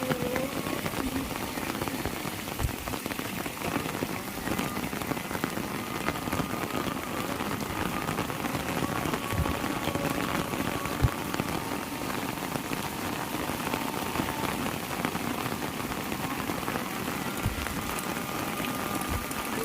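Heavy rain falling steadily, a dense even hiss of drops on surfaces, with the odd sharper drop striking close by, the loudest about halfway through.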